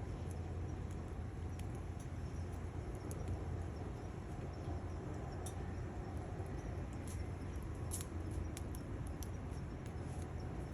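Firewood crackling as it burns in a Bushbox XL stainless steel twig stove, with scattered sharp pops and snaps over a steady low rumble.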